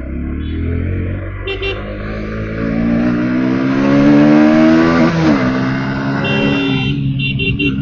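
Single-cylinder engine of a Bajaj Pulsar NS motorcycle accelerating: its pitch rises steadily for about four seconds, falls sharply at a gear change, then runs on steadily. Short horn beeps from traffic sound about a second and a half in and again near the end.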